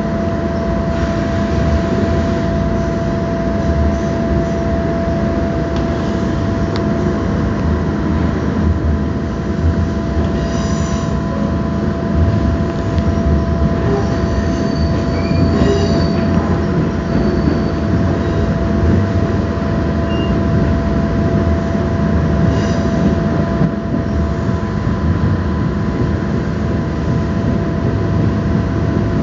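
A passenger train running, heard from inside the carriage: a steady rumble of wheels on track with a constant whine on top. Short high-pitched wheel squeals come in a few times, about a third of the way in, around the middle and again about three quarters through.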